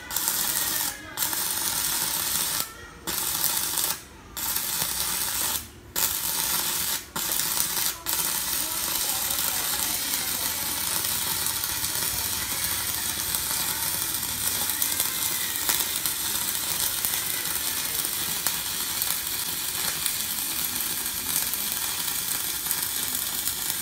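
Stick-welding arc from a Kenmax ARC200I inverter welder burning a 2.5 mm electrode, a steady sizzle. The arc drops out briefly about six times in the first eight seconds as it is restruck, then burns unbroken until it stops suddenly near the end.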